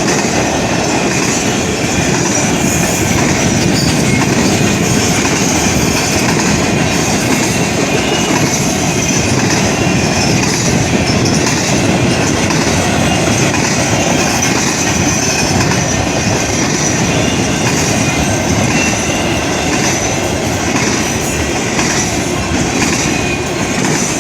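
Freight train cars rolling past close by: a steady loud rumble of steel wheels on rail with clickety-clack and a faint high-pitched wheel squeal over it.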